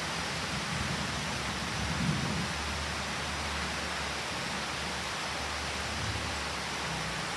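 Thunderstorm: steady heavy rain, with a low rumble of thunder that swells about two seconds in and rolls on for several seconds.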